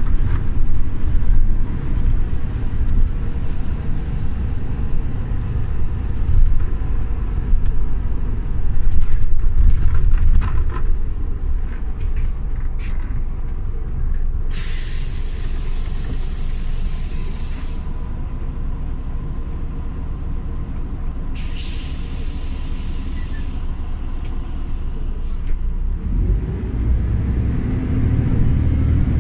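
Scania OmniLink CL94UB city bus engine running, heard from inside the bus, with some rattling. About halfway through, two loud three-second blasts of compressed air hiss from the bus's pneumatic system. Near the end the engine grows louder as the bus pulls away.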